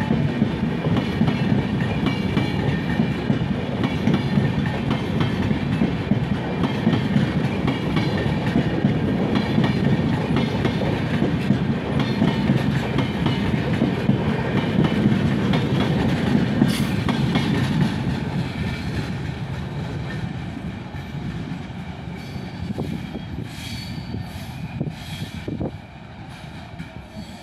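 Express train's passenger coaches running past at speed: a steady rumble of wheels clattering on the rails. It fades away over the last third as the end of the train recedes.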